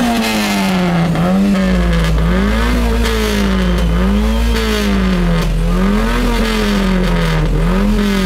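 Car engine being revved again and again, its pitch climbing and dropping back about every second and a half.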